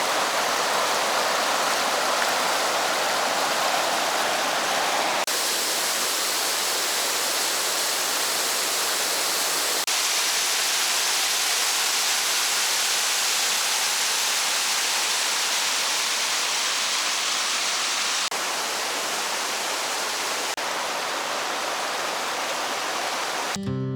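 Rushing river water, a steady even wash of noise whose tone shifts abruptly a few times between shots. Strummed acoustic guitar music comes in right at the end.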